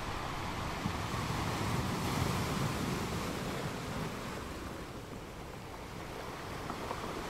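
Ocean surf washing up a sandy beach, a steady rush that swells about two seconds in and then eases off.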